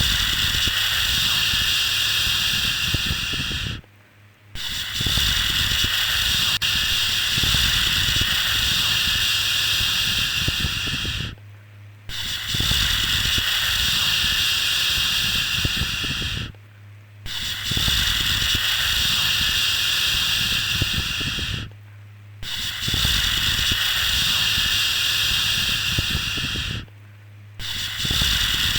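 Long, steady 'shhh' shushing sounds of the kind used to lull a baby to sleep, each held for about four to seven seconds with a short break between them, six in all. A faint steady low hum runs underneath.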